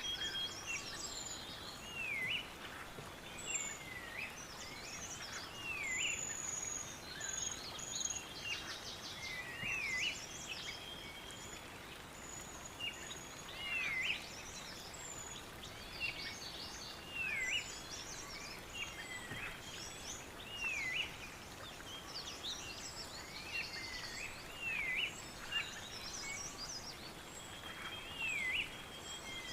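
Several songbirds singing over one another, with a repeated swooping call that dips and rises, high thin whistles and short trills, over a steady background hiss.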